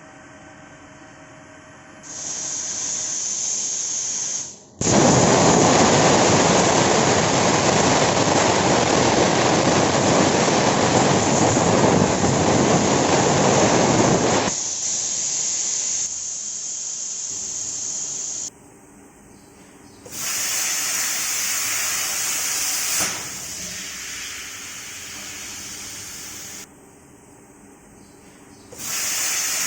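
Hypertherm Powermax65 plasma cutter: a high air hiss from the torch, then the cutting arc runs loudly for about ten seconds, followed by further stretches of air hiss that stop and start again.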